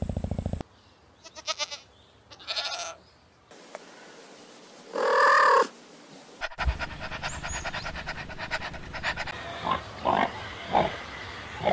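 A cat meowing: faint cries, then one loud meow about five seconds in. After a cut, young pigs in a pen grunt, with several short squeals near the end. It opens with the last moment of a low, rapid rattling sound that stops abruptly.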